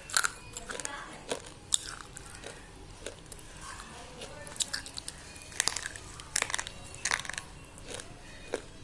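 A person biting and chewing thick white slate pencils: sharp, irregular crunches and snaps, bunched more closely about two thirds of the way through.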